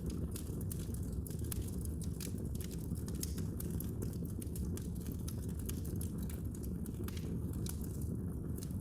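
Wood fire crackling in a fireplace: frequent small, irregular pops and snaps over a steady low rumble of the flames.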